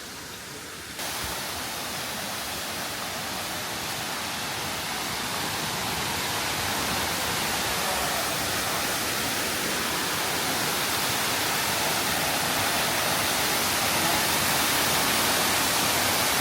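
Waterfall rushing: an even, wide hiss of falling water that comes in abruptly about a second in and grows slowly louder.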